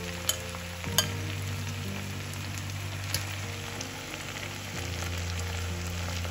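Chicken thighs and vegetables sizzling steadily in a stainless skillet, with a few sharp clicks of a spoon against the pan. Background music with long held notes plays along.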